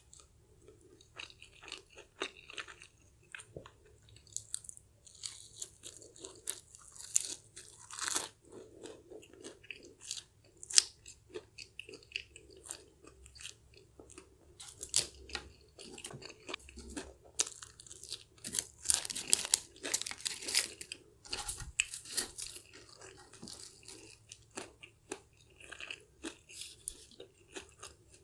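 Close-miked chewing and crunching of KFC's crispy salted egg curry fried chicken: a steady run of crisp crunches from the coating, densest about two-thirds of the way through.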